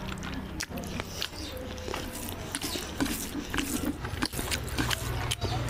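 Close-miked chewing of oily mutton fat curry and rice: a run of wet lip smacks and mouth clicks, over a low steady hum.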